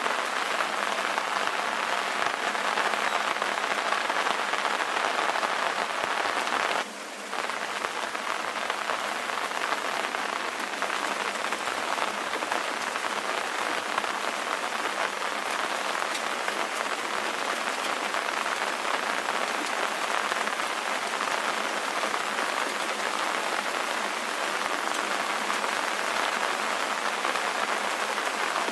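Steady rain falling, an even hiss of many drops with no deep rumble. About seven seconds in, it briefly drops quieter for a moment, then carries on.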